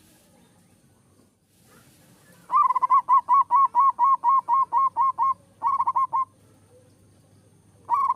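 Zebra dove (perkutut) singing: a fast run of about a dozen short, hooked cooing notes at roughly five a second, then a shorter run of a few notes, and another run starting near the end.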